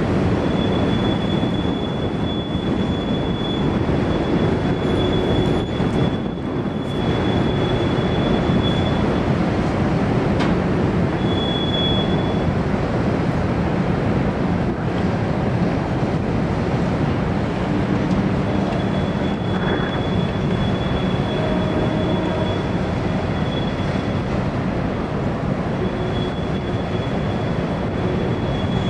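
Long cut of CSX coal gondolas rolling past while being shoved, with a steady rumble of wheels on rail. A thin, high wheel squeal comes and goes, dropping out for several seconds in the middle.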